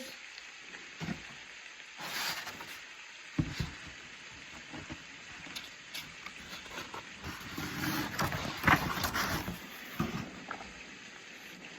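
Paper rustling and handling noises as a picture book is held and its pages turned, with a soft knock about three and a half seconds in and a busier stretch of rustling near the end.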